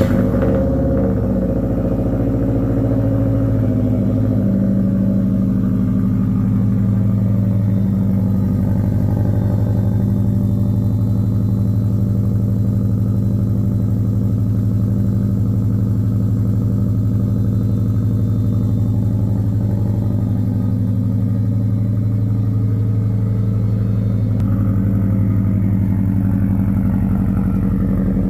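The drift car's swapped-in 2-litre Subaru WRX flat-four engine, its spark plugs freshly regapped, fires up right at the start and then idles steadily, settling a few seconds in.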